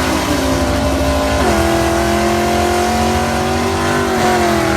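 Classic muscle car engine running loud with a heavy low rumble; about a second and a half in it is revved up to a higher, steady pitch, which sags briefly and climbs again near the end.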